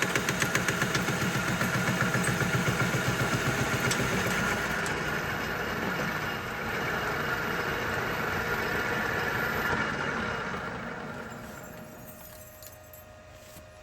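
Metal lathe taking a boring-bar pass inside a steel bore: the tool knocks about four times a second as it crosses a slot cut in the bore, an interrupted cut. The knocking gives way after about four seconds to smoother cutting noise, which dies away near the end as the pass finishes.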